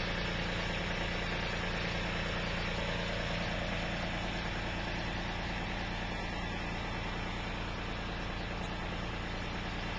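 Small snow-clearing tractor's engine idling steadily at an even pitch.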